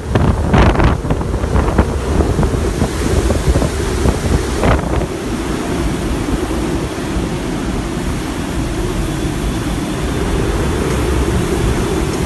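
Hurricane-force wind blasting across the microphone: a constant low rushing, gustier in the first couple of seconds, with one sharp gust about four and a half seconds in.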